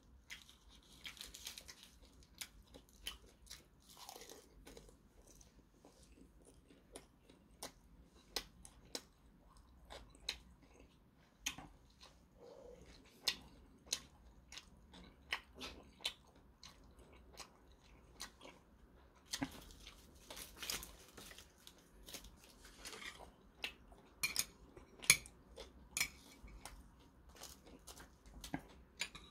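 A man chewing and biting mouthfuls of grilled pork belly wrapped in dried seaweed and kimchi, heard as irregular short clicks and mouth noises, louder in stretches about two-thirds of the way through.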